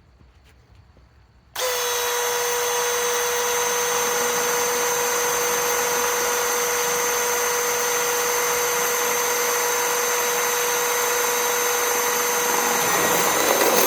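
Milwaukee M12 Fuel hammer drill running a step bit through 1/8-inch steel. It starts about a second and a half in and holds a steady whine, which dips in pitch and turns rougher near the end.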